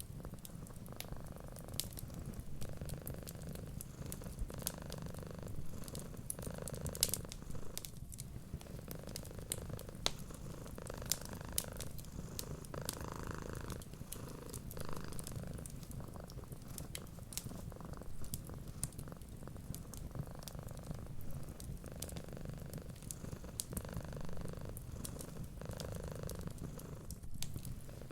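Domestic cat purring steadily, the purr rising and falling about every two seconds, over the scattered sharp crackles and pops of a wood fire.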